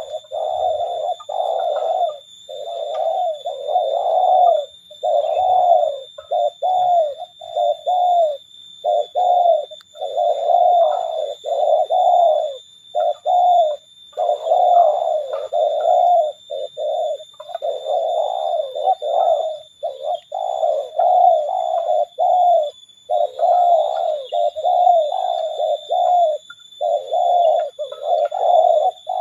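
Spotted doves cooing over and over in closely packed phrases with only short gaps between them, against a steady thin high whine.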